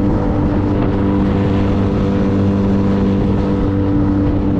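Yamaha T25 high-thrust, fuel-injected kicker outboard running steadily in forward gear under throttle, pushing the boat along. Its engine note holds an even pitch.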